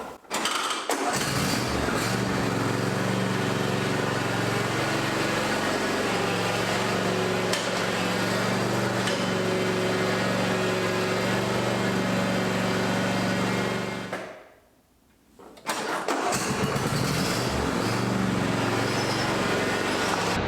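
John Deere D125 lawn tractor engine running steadily under load. It starts about a second in, fades to near silence for about a second and a half about two-thirds of the way through, then runs again.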